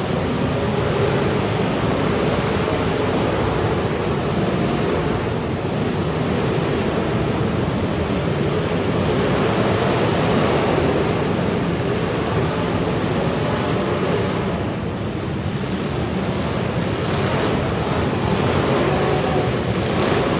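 Many unmuffled demolition derby car engines running and revving together, a dense, steady noise that dips briefly near the end.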